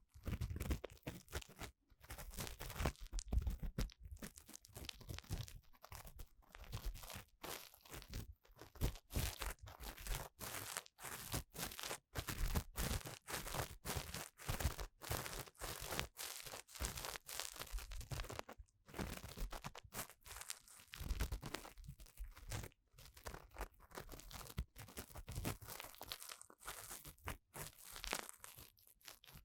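Ear-cleaning tool scraping and rubbing inside the ear of a binaural dummy-ear microphone, a close, continuous scratchy crackle made of many short strokes with brief pauses between them.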